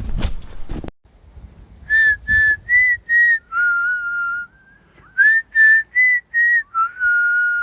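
A person whistling a short tune: four short notes followed by a longer, lower held note, the phrase whistled twice. About the first second is taken up by rustling or footsteps.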